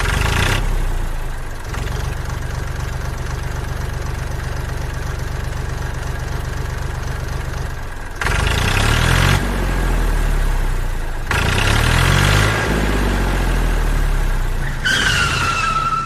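Tractor-style engine idling with a fast, even beat, then revving up and down twice, about 8 and 11 seconds in. A falling whine comes near the end.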